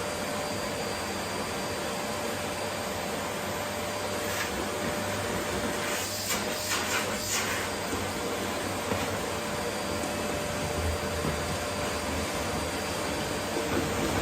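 Vacuum cleaner running steadily with a constant-pitched motor whine over its hiss. A few brief rushes of brighter hiss come in the middle.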